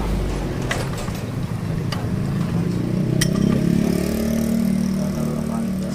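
A vehicle engine running steadily, swelling and rising a little in pitch in the middle, with a few sharp clicks on top.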